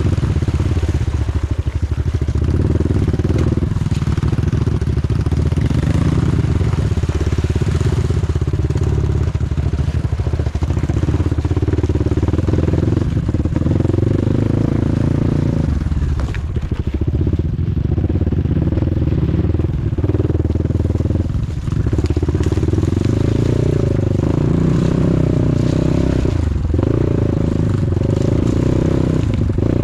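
Off-road motorcycle engine running under changing throttle as the bike is ridden, its pitch rising and falling, with a couple of brief throttle-offs past the middle.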